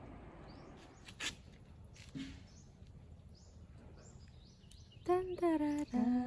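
Faint outdoor ambience with scattered short bird chirps and a single sharp click, then someone starts humming a tune about five seconds in.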